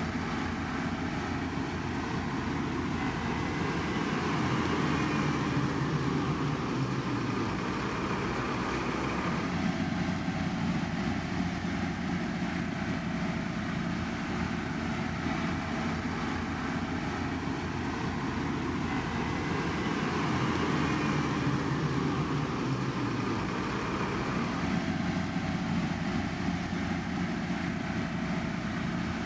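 Heavy road-construction machinery running steadily, a continuous engine and mechanical noise that swells slightly twice.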